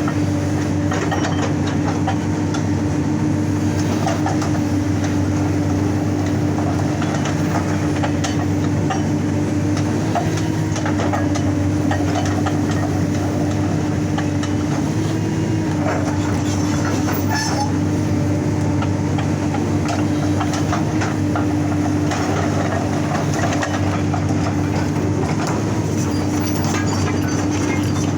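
Excavator-mounted hydraulic breaker hammering rock in a rapid, continuous rattle over the steady drone and whine of the excavator's engine and hydraulics.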